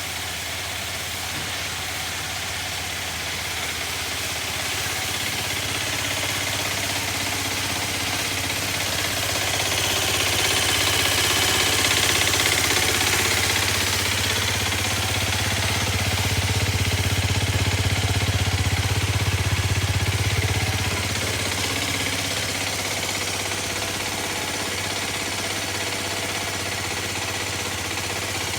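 Aprilia RX125 125 cc single-cylinder motorcycle engine running steadily at idle. It grows louder through the middle and eases back down a little after two-thirds of the way through.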